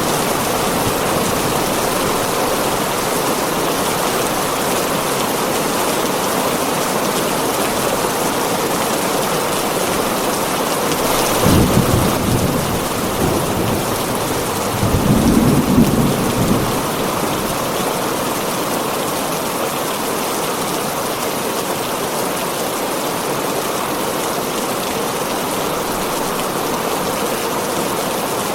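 Heavy rain falling steadily on a tin roof, with thunder rumbling twice around the middle.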